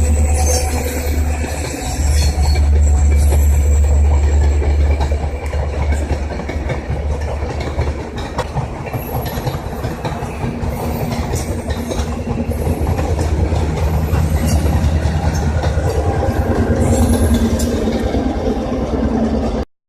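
Vermont Rail System train rolling past, a heavy low rumble with wheels clicking over the rail joints. The sound cuts off suddenly near the end.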